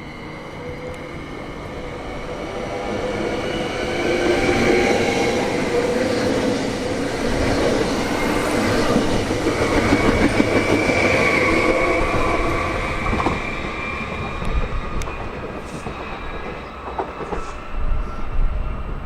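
A train passing on the line, growing louder over the first few seconds, loudest through the middle and easing off near the end, with a steady high-pitched whine.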